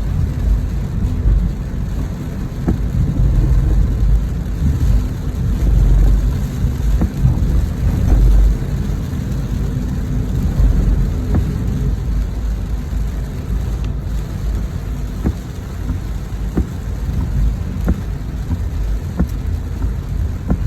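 Rain falling over a constant low rumble, with scattered sharp ticks of drops.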